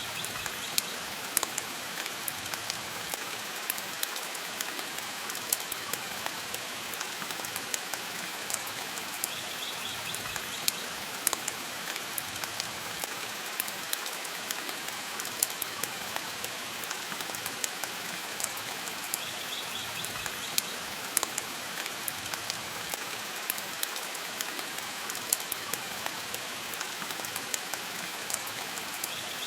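Steady rain hiss with frequent short, sharp crackles and pops from a wood fire scattered through it. The pops are the loudest events.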